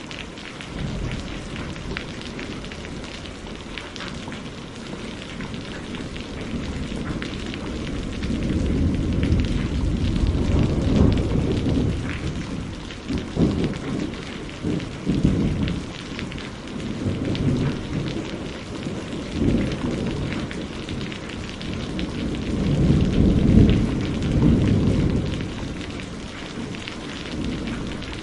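Steady rainfall with rolling thunder: low rumbles swell in about 8 seconds in, come and go in waves, and are loudest around the middle and again near the end before fading back to rain alone.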